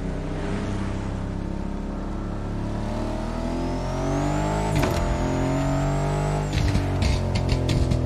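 Aston Martin Vantage engine at full throttle: the revs climb with a high whine rising above them, break sharply at a gear change about five seconds in, and climb again. About six and a half seconds in the throttle is lifted and the revs fall, followed by a string of sharp crackles and pops from the exhaust.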